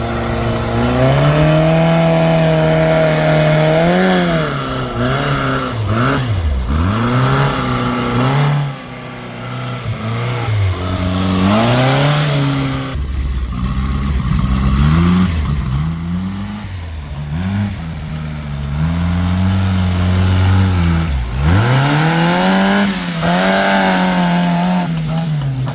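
Heavy diesel engine revving hard under load, its pitch repeatedly climbing, holding and then dropping away sharply, as a vehicle strains to pull through deep mud.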